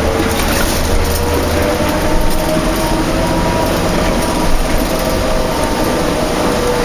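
Inside a New Flyer D40LF transit bus under way: the Cummins ISL diesel and ZF automatic transmission run with a whine that rises slowly in pitch, over a steady hiss of rain and wet road noise.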